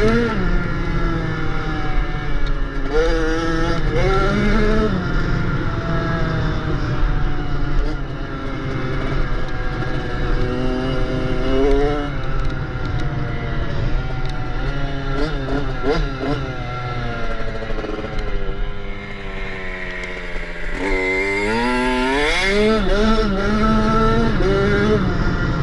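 Small dirt bike engine running continuously, revving up and easing off again and again, with a quieter spell about three quarters of the way through before it revs hard once more.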